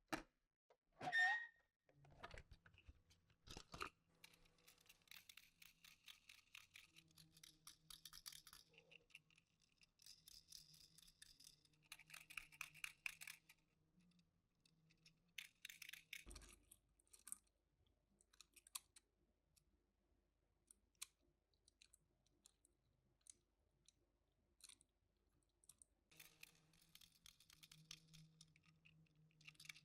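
Faint crinkling and rustling of packaging being handled, with scattered small clicks and taps, and a short rising squeak about a second in.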